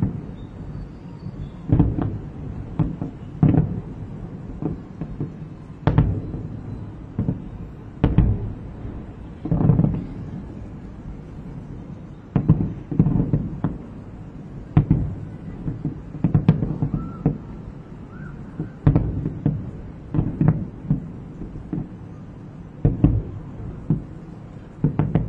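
Distant aerial fireworks bursting: a string of booms at irregular intervals of one to two seconds, some in quick clusters, each followed by a brief low rumble.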